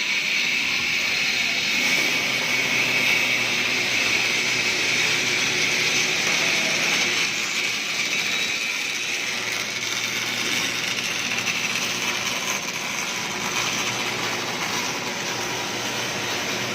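Automatic hydraulic cylinder welding machine running, giving a steady, even hiss-like noise that changes little throughout.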